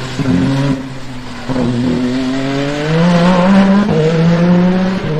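Peugeot 9X8 hypercar's twin-turbo V6 running hard. Its pitch climbs, drops suddenly a little before four seconds in, then holds steady.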